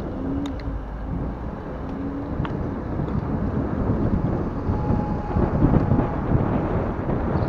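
Wind buffeting the microphone, with rolling noise from a recumbent bicycle ride. It gets louder and gustier in the second half, and there are a couple of brief low tones in the first few seconds.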